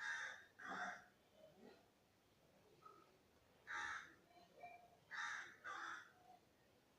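Faint bird calls: five short calls, two together at the start, one about four seconds in, and two more close together about five and six seconds in.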